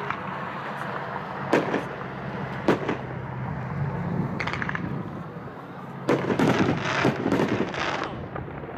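A 9-shot, 500-gram consumer fireworks cake with double-break shells firing. There are sharp reports about one and a half and two and a half seconds in, then a dense run of bursts and crackle from about six to eight seconds in.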